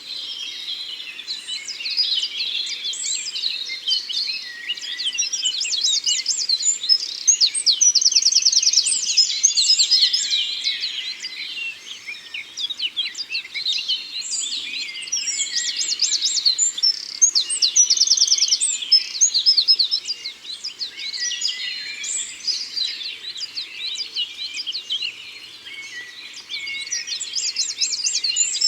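Forest birdsong: several birds singing and chirping at once, with rapid trills standing out now and then.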